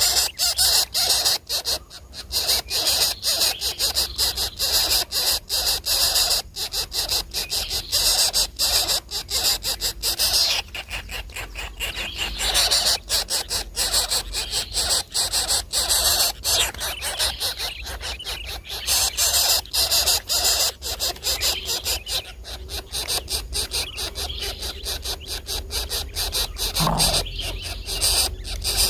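Coucal chicks giving harsh, rapidly pulsing squealing begging calls, on and off with short pauses.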